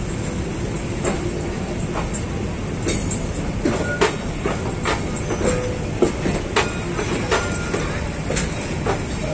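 Passenger coaches of a Vietnamese train rolling past at close range: a steady rumble of wheels on track, broken by irregular sharp clanks and clicks, with a couple of brief faint squeals.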